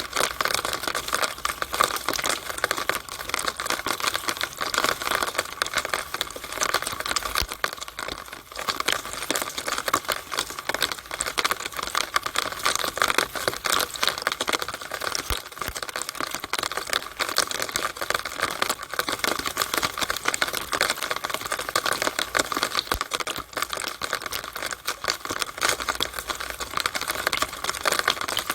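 Rainwater pouring out of a downspout on a rainy day: a steady, dense crackle of splashing and trickling water.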